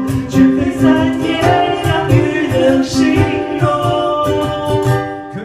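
A man singing a Mandarin pop song with a steady rhythmic backing; the music fades out and stops at the end.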